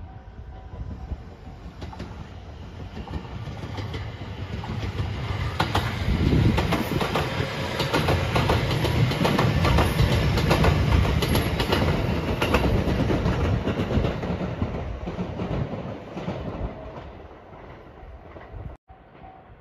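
JR West 227-series 'Urara' electric multiple unit approaching, passing close by and pulling away, its wheels clicking over the rail joints. The sound builds over the first few seconds, is loudest from about six to thirteen seconds in, then fades.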